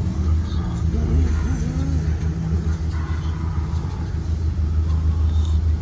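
2023 Blue Bird Vision school bus running on the road, a steady low engine and road rumble.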